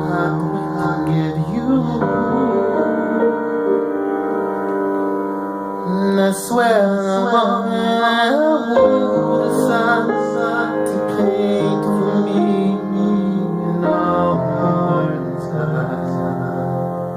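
A piano-led song playing without lyrics: sustained piano chords, with a wavering, gliding melody line over them from about six to nine seconds in.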